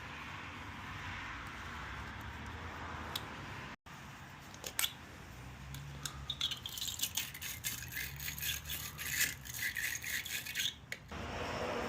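Steady hiss, then rapid, irregular metallic clicking and rattling for about four seconds from tools working on car battery hardware.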